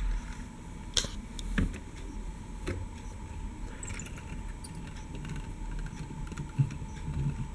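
Small die-cast model tractors and trailers handled and moved, giving scattered clicks and clinks over a low rumble, with a sharp click about a second in.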